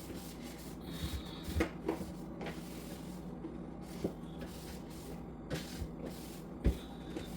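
Rag wiping the inside walls of a refrigerator, with a few light knocks against the plastic and a couple of brief squeaks.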